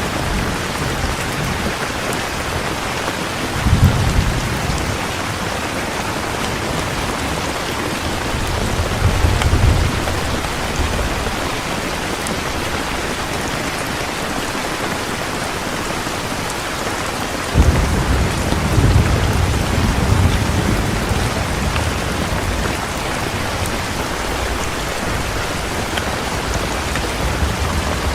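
Heavy rain falling steadily, with low rumbles of thunder about 4 seconds in, around 9 seconds, and a stronger one that breaks in suddenly at about 17 seconds and rolls on for several seconds.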